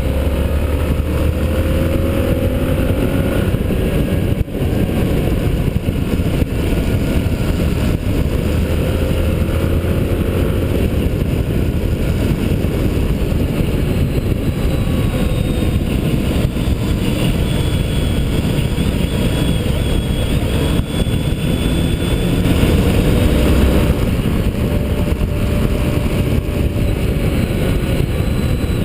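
Motorcycle engine at speed on a race track, its pitch rising and falling as it accelerates and slows, under heavy wind rush on the microphone.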